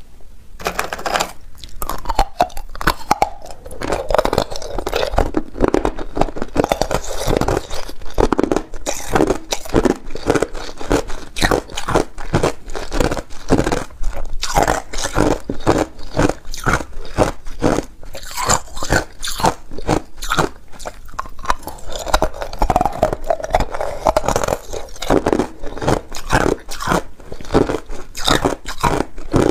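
Ice being bitten and chewed close to the microphone: rapid, continuous crunching of hard ice, many cracks a second.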